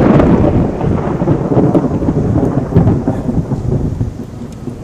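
Thunder rumbling, loudest at the start and slowly dying away over the next few seconds.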